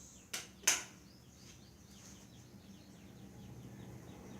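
Baby birds chirping faintly in a quick run of short falling cheeps, several a second. Two sharp clicks come in the first second.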